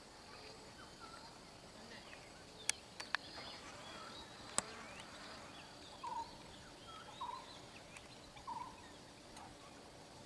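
Birds calling over quiet rural ambience: scattered short chirps and whistles, with three louder short calls about a second apart in the second half. Three sharp clicks a little before the middle.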